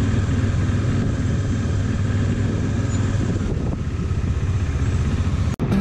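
Motorcycle engine running steadily, which breaks off for an instant near the end.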